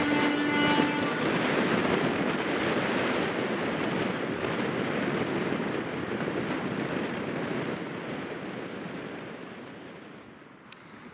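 Strong wind buffeting the microphone, a steady rush of noise that eases near the end. The last held note of the Disney Fantasy's musical ship horn sounds and stops about a second in.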